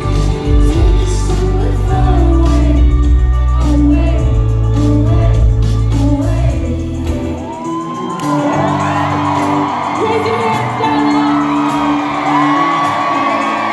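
Live pop band performance with a singer over the music, heard through a concert hall; the heavy bass drops out about seven seconds in, leaving lighter backing under the vocal lines.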